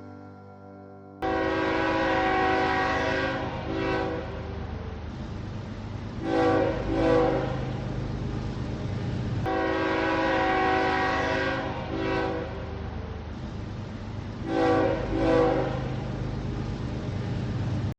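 Train horn sounding, a chord of steady tones that begins abruptly about a second in. It is held in long blasts with shorter accents, over the low rumble of the train, and cuts off suddenly at the end.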